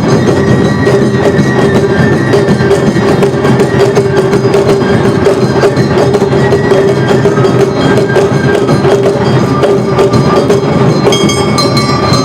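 Awa odori festival band playing: a fast, dense rhythm of taiko drums and the clanging kane hand gong, with long held pitched notes sounding over the percussion.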